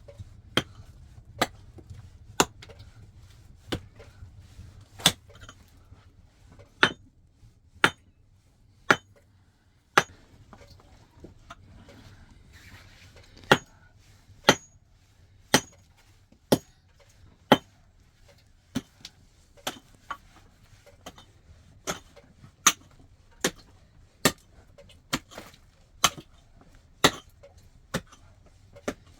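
A hand tool striking a hard surface in steady, sharp blows about once a second, with a short pause around ten seconds in.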